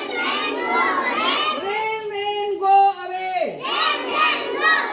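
A group of young children singing a nursery rhyme loudly together in high voices, with a held note in the middle that slides down near the end.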